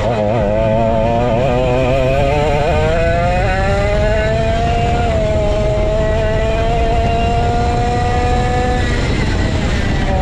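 Vintage go-kart's 135cc Sudam engine at race speed, its pitch wavering up and down through the first few seconds, then climbing steadily for about six seconds as it accelerates, and falling away near the end as the throttle comes off.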